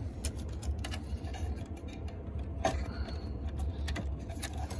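A 1993 Toyota Camry's engine idling as a steady low hum heard from inside the cabin. Over it come scattered light clicks and scrapes as the car stereo head unit is slid out of its dash opening, with one louder click about two and a half seconds in.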